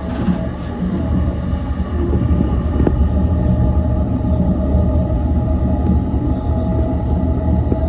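Yokosuka Line E235-1000 series electric train running on the line, heard from inside the leading car. A steady low rumble with a few steady tones over it grows a little louder about two seconds in.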